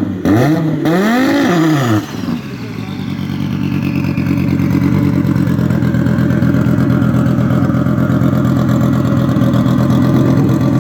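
A drag-race vehicle's engine revved in quick blips, rising and falling about once every half second, then, after a break about two seconds in, running steadily with a faint whine that slowly falls in pitch.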